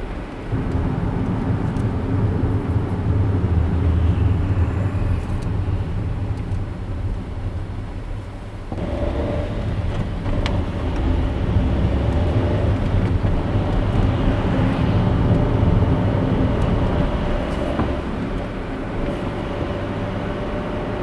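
A car driving on city roads: steady engine and tyre road noise that swells and eases. About nine seconds in, the noise turns abruptly brighter.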